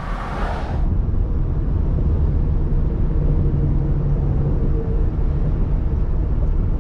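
Vehicle driving on the road at speed: a steady low engine and road rumble with a faint steady hum.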